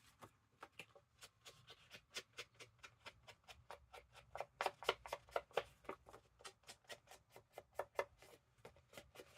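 Rapid light taps of an ink pad or blending tool dabbing ink onto paper, about four to six soft ticks a second, unevenly spaced and varying in loudness.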